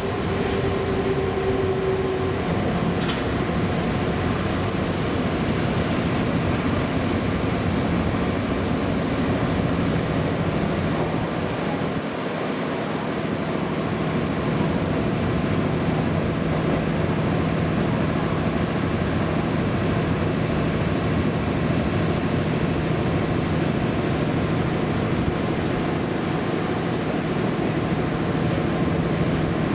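Cabin running noise of a JNR 211 series electric train under way on the rails. About ten seconds in, the car's air compressor starts, adding a steady deep hum that runs on.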